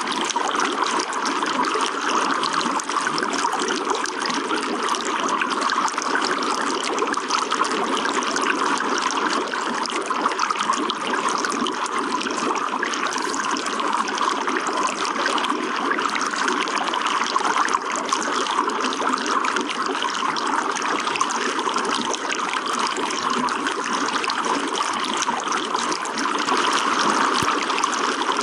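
Running water trickling and splashing steadily, a continuous even wash flecked with small droplet splashes.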